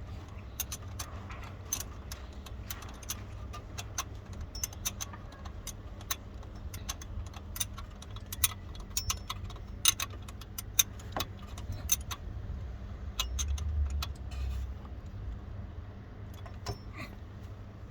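Irregular metallic clicks and clinks of hand tools and parts being handled during starter-motor work, over a steady low hum.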